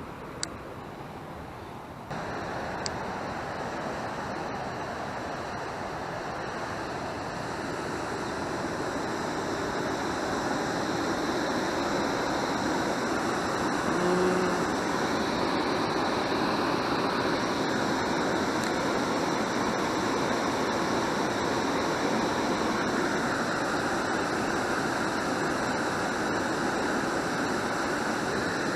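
Steady rush of falling water, getting louder about two seconds in and then swelling gradually.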